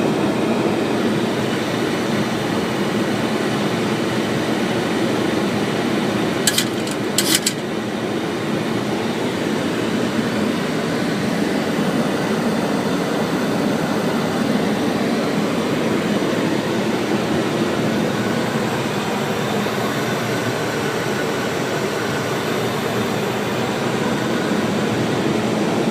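Steady rushing rumble of air and engines in a Boeing 737-800 cockpit on final approach, with gear and flaps down. A few short clicks come about six to seven seconds in.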